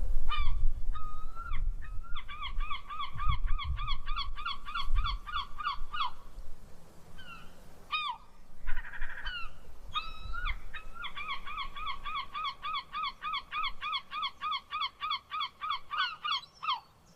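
A bird calling in two long runs of rapid, repeated honking notes, about four or five a second, over a low rumble.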